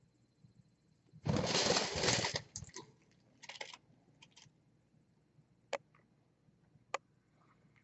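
A pet bird flapping its wings in a burst of about a second, followed by a few shorter flutters and, later, two sharp taps.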